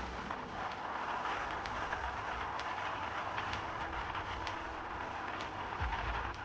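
Boat running fast over the water: a steady rush of water and wind with an uneven low rumble underneath and scattered sharp ticks.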